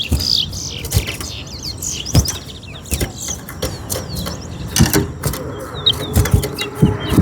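Towa towa seed finches chirping and calling in short, quick notes, with irregular sharp taps and knocks throughout.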